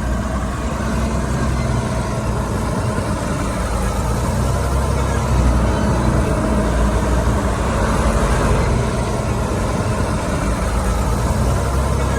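Heavy diesel engine of earthmoving machinery running steadily with a deep, even hum, getting a little louder around the middle.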